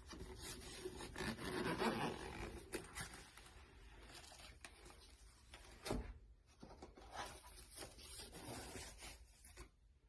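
Rustling and rubbing with scattered light clicks, the sound of a makeup case and its contents being handled, with one louder knock about six seconds in.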